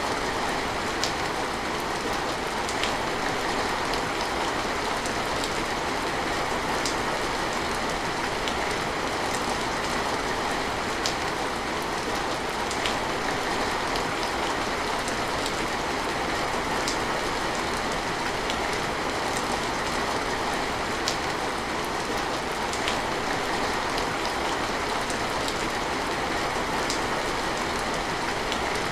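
Steady rain falling, an even hiss with scattered sharper drops ticking on a hard surface.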